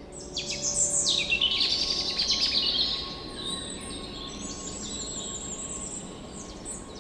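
Birds chirping and calling: a loud run of quick, high chirps and falling notes in the first three seconds, then fainter calls over a steady low background.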